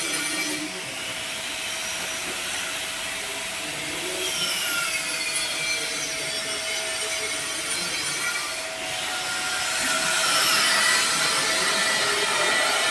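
Welding arc on a pipe joint, crackling and hissing steadily, a little louder about ten seconds in.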